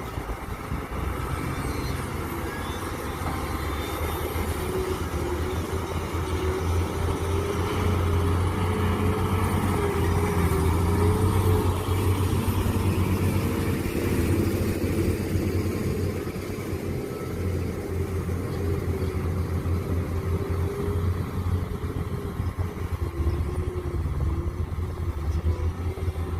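Mini excavator engine running steadily under work, with a wavering whine above the low engine note. It grows louder about a quarter of the way in and eases off again after the middle.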